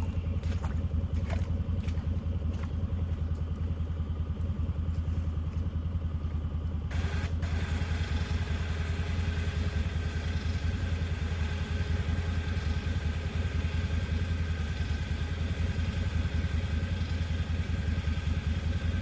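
Vehicle engine running steadily with a low, even drone. About seven seconds in, a louder hiss of higher noise joins it and carries on to the end.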